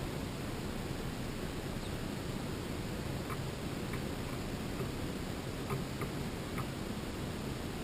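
Steady outdoor background hiss with a few faint, short chirps scattered through it.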